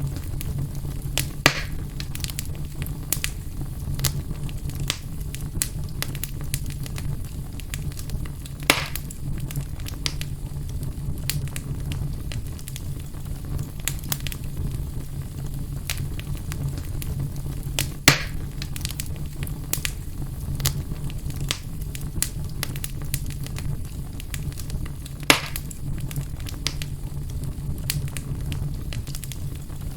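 Wood fire burning in a fireplace: a steady low rumble of flames with frequent crackles and four louder pops spread through.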